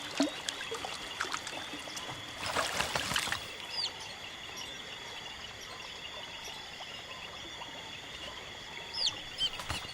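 River-wetland ambience: a steady high hum, a few short bird chirps, and a brief rush like splashing water about two and a half seconds in.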